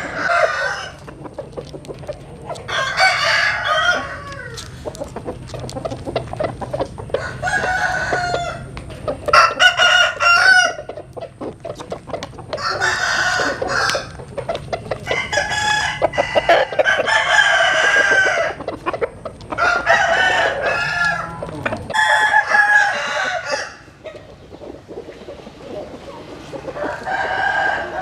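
Roosters crowing again and again, about ten crows of one to two seconds each, with chickens clucking in between.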